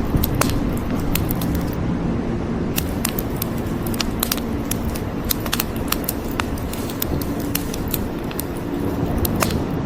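Wood fire crackling, with many sharp pops and snaps at an irregular rate of several a second, over a steady low rumble and the even hiss of falling rain.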